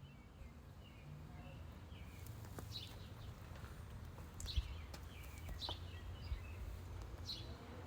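Short, high bird chirps every second or two over a steady low rumble.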